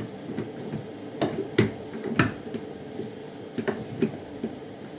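Kitchen handling noises: a scatter of sharp knocks and clicks of pots, utensils or cupboard doors being moved, the loudest about a second and a half and two seconds in.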